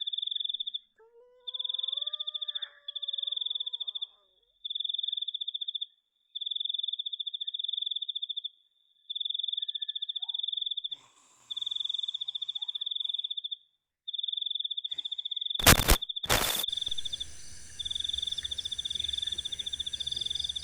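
Cricket trilling: a high, finely pulsed trill repeated in bursts of a second or two with short gaps. About one and a half seconds in, a faint drawn-out call with a slightly wavering pitch slides up and holds for about two seconds. Near the end, two sharp loud cracks are followed by a steady hiss and low hum.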